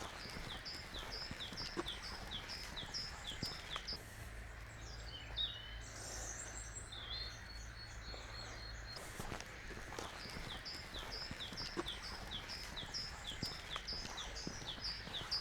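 A songbird singing a fast, high-pitched two-note phrase repeated about three times a second, in two long runs. Between the runs come other, softer bird calls over a faint low hum.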